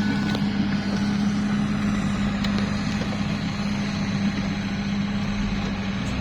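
Vehicle engine idling steadily, a constant even hum with no change in speed.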